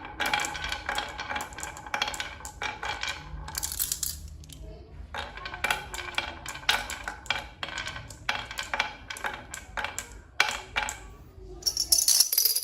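Rapid light metallic clinks and taps, each ringing briefly, with a brighter, higher clatter near the end.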